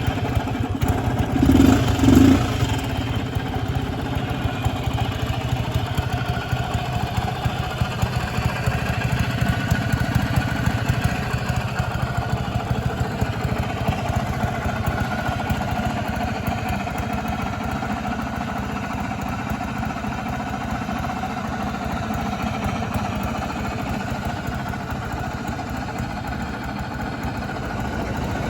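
Fuji Heavy Industries Rabbit S601 scooter engine, freshly started, blipped twice about two seconds in, then idling steadily.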